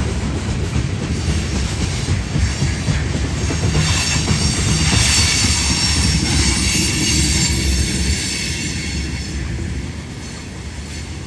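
Long freight train rolling past, a steady rumble of wheels on rail with a high wheel squeal from about four to eight seconds in, the sound easing a little near the end.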